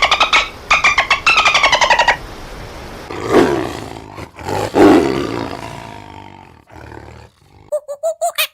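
Animal calls: a rapid run of pulsed calls falling in pitch, then two loud, deep calls that each fall away.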